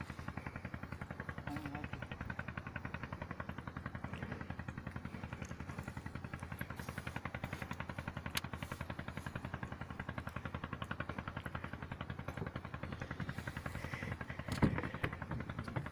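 Boat engine running steadily with a fast, even chugging beat. About fourteen and a half seconds in, a single knock stands out above it.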